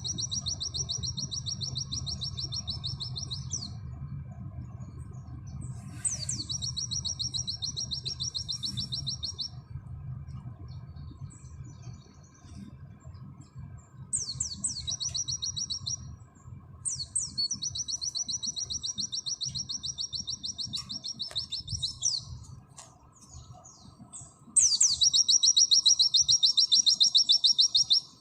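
White-eye (pleci) singing its rapid 'nembak' song: long, fast, shivering trills, each opening with a sharp high note, given four or five times with short pauses. The last trill, near the end, is the loudest.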